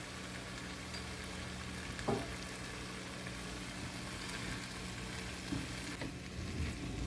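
Kabocha squash frying in a pan with onion, tomato and seasoning, a steady sizzle, with a short knock about two seconds in and a few lighter knocks near the end.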